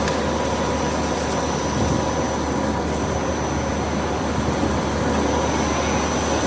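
Steady machinery noise of tyre-factory equipment running, an even din with a faint constant high whine.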